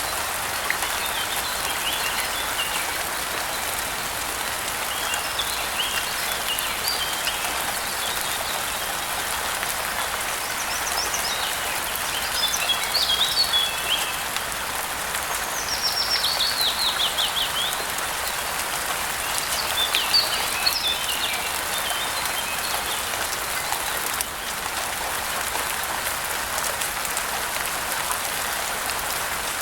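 Steady rain falling, with songbirds chirping over it in short phrases every few seconds, including a quick run of falling notes just past the middle.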